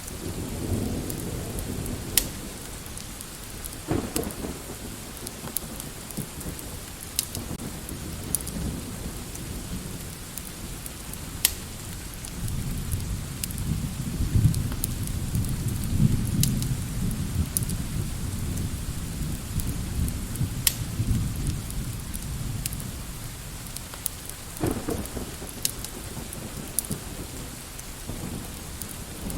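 Steady rain hiss with low rolling thunder, strongest through the middle, and scattered sharp crackling pops from a fireplace.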